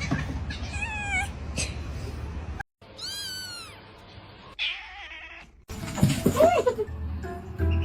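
Domestic cat meowing three times, the middle call a longer rising-and-falling meow, with abrupt cuts in between.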